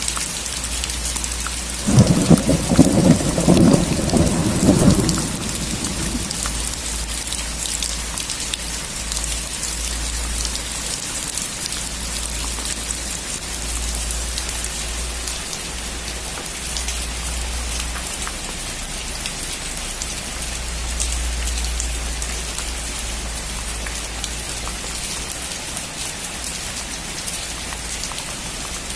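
Steady rain falling in a thunderstorm. A thunderclap breaks in sharply about two seconds in and rumbles for a few seconds before fading back into the rain.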